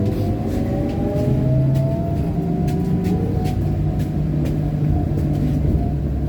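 Trolleybus running under power: the electric traction motor's whine rises slowly in pitch as it gathers speed, over a steady low rumble, with scattered clicks and rattles.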